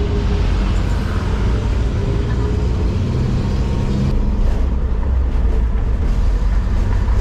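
Steady low rumble of a motor vehicle on the move, with a faint even engine hum.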